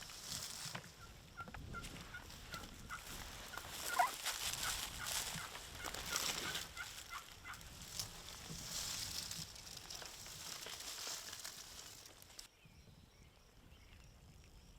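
Wild turkey calling: a run of short notes with one louder gobble about four seconds in, over wind noise on the microphone. The wind noise drops away suddenly near the end.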